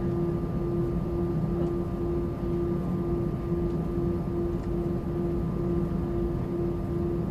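Steady engine and air-conditioning hum inside the cabin of an Airbus A320-200. It is a low rumble with a mid-pitched tone that throbs about twice a second.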